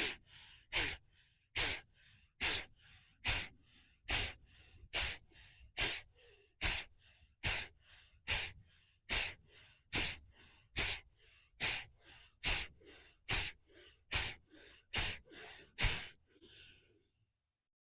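Bhastrika (bellows breath) breathing: forceful, explosive exhales alternating with quick, fainter inhales in a steady rhythm of a little more than one breath a second. About twenty breaths in all, stopping shortly before the end.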